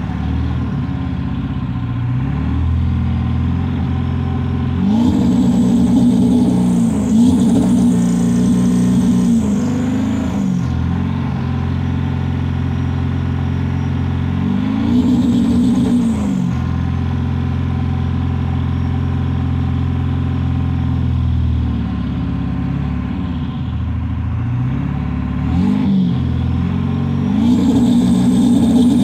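Ford 7.3 Power Stroke V8 turbo-diesel engine run up and let back down several times, with steadier stretches between. The owner says the engine misfires when floored.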